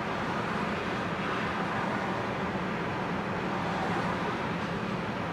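Loaded coal train rolling past: a steady rumble of hopper cars' wheels on the rails, with no breaks or distinct clanks.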